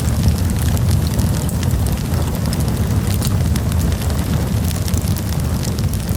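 Wood campfire burning: a steady low rumble of the flames under frequent sharp crackles and pops.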